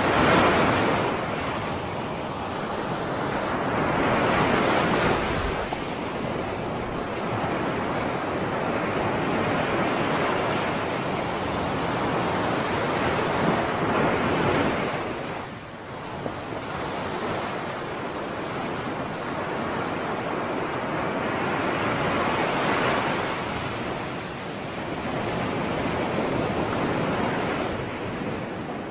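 Sea surf washing onto the shore, a continuous rush that swells and eases as waves break every few seconds.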